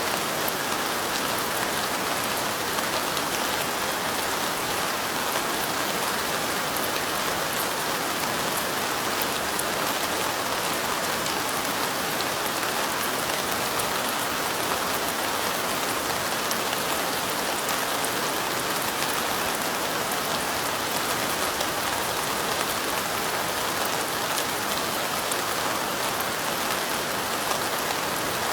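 Steady light rain falling, an even dense patter of drops with no pauses.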